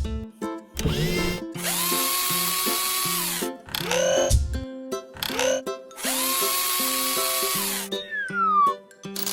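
Cartoon power-drill whirring in several long runs, each spinning up and holding, with short rising glides between them and a falling whistle near the end, over children's background music.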